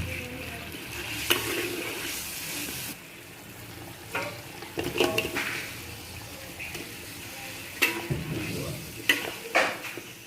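Food sizzling in a pan while it is stirred, with scrapes and clinks of a utensil against the pan. The sizzle is loudest for the first three seconds, and sharp clinks come every second or two.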